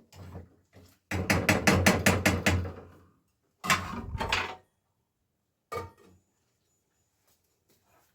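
A rapid run of knocks, about seven a second, for about two seconds. A shorter burst of knocking follows about a second later, then a single sharp click.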